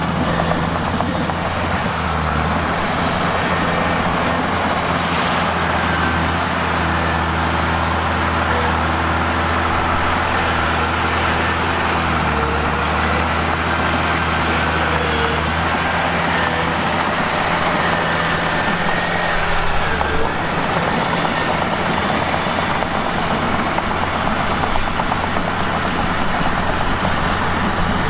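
Mitsubishi bulldozer's diesel engine running steadily while pushing rock. Its pitch shifts about twelve seconds in and again near twenty seconds, with a few faint high squeals.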